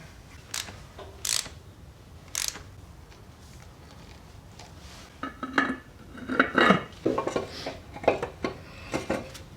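Metal tools and parts clinking: three single sharp clicks, a quiet stretch, then from about five seconds in a busy run of clinks and knocks.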